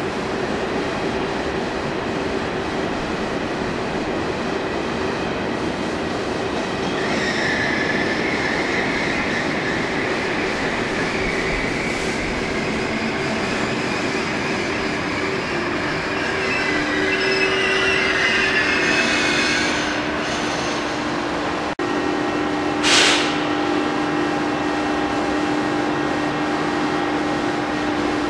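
Electric trains running through a station: a steady rumble with wheel squeal, a high squeal from about a quarter of the way in and again past the middle. A short sharp burst, the loudest sound, comes about three quarters through, and a steady hum sets in as another train draws nearer near the end.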